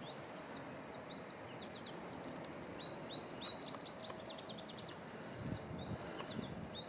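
Small birds chirping, many quick short notes in a loose, ongoing series, faint over a low steady outdoor background.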